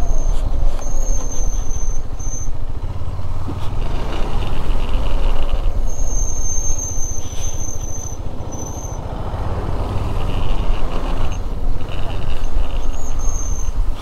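KTM 390 Adventure's single-cylinder engine running as the motorcycle rides along, a steady heavy rumble that eases a little past the middle. A thin high squeal comes and goes several times over it.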